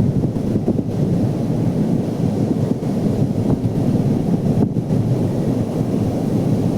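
Wind buffeting the microphone over the steady rumble of surf on the beach.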